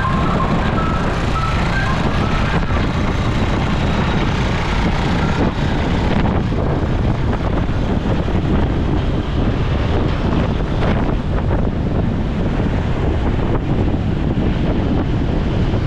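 Steady wind buffeting the microphone over motorcycle engine and road noise while riding in traffic. A few short high beeps sound in the first second.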